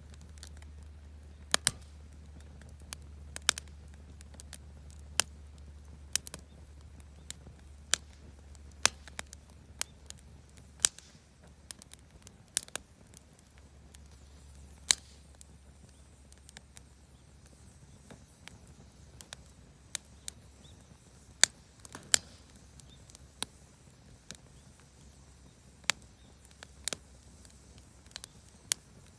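Campfire of scrap-wood offcuts and firewood crackling, with irregular sharp pops and snaps, a few of them loud, over a low rumble that drops away now and then.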